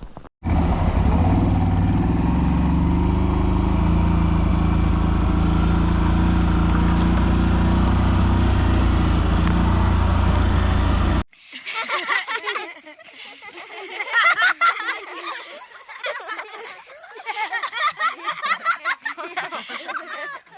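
All-terrain vehicle (quad bike) engine running steadily and loudly for about ten seconds, then cutting off abruptly. This is followed by indistinct voices and laughter.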